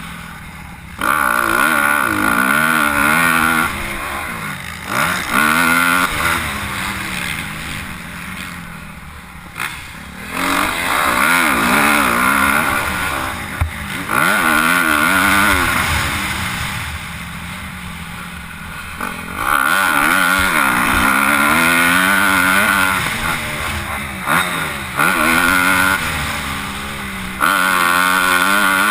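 Motocross bikes revving hard and easing off as they ride the track, the engine pitch swooping up and down through the gears. The engine note swells loud about six times as bikes pass close by, dropping back in between.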